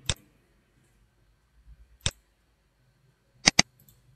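Computer mouse button clicking: a single click at the start, another about two seconds later, then two quick clicks near the end.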